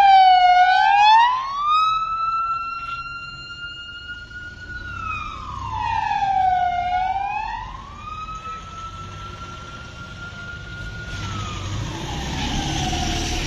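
Emergency vehicle siren sounding: one pitched wail that dips low, rises and holds high for a few seconds, then dips and rises again. Near the end a hiss and rumble of vehicle noise builds under it.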